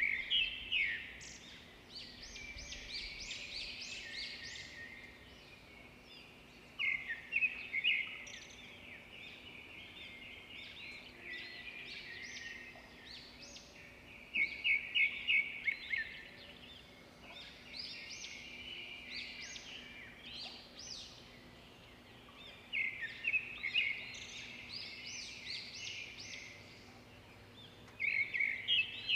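Bird song: a songbird repeating a rapid phrase of high chirps every several seconds, with softer chirping between the phrases. A faint steady hum runs underneath.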